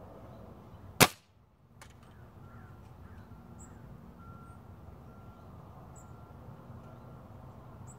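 A single shot from an Umarex Gauntlet .22 PCP air rifle about a second in: one sharp crack. Wind noise runs underneath.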